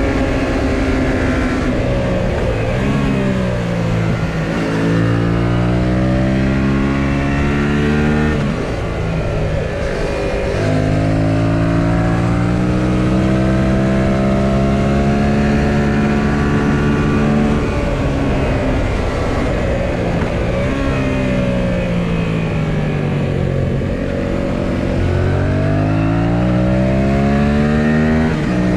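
2018 Yamaha XSR700's parallel-twin engine heard on board while riding, over wind noise. The engine note drops as the bike slows a few seconds in, climbs and holds steady for several seconds, falls again, then rises as it accelerates near the end.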